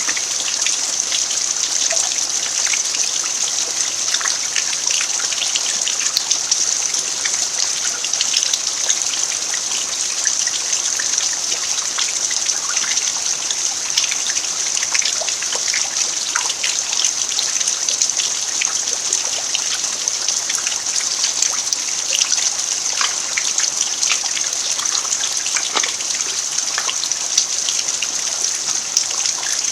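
Steady rain falling on a dirt yard, an even hiss scattered with many small drop ticks.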